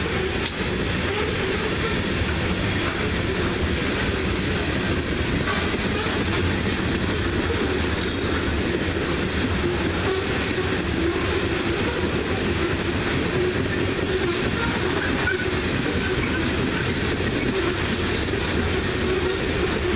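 Coal train cars rolling past with a steady rumble and the clickety-clack of wheels over the rail joints.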